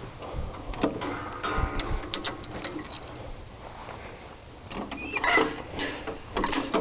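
Short metallic clicks and rattles, clustered about a second in and again near the end, as the steel plow's depth-adjusting levers are worked.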